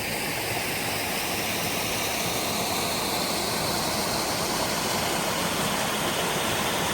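Waterfall on a mountain river, the water rushing in a steady, even rush of noise.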